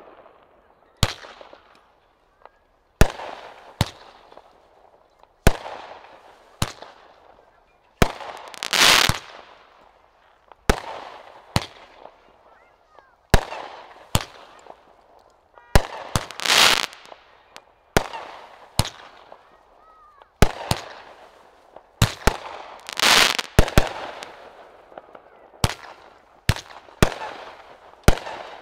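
Aerial consumer fireworks going off in a steady string: sharp reports every second or so, each trailing off in echo, with a few louder, longer bursts about a third, halfway and three-quarters of the way through.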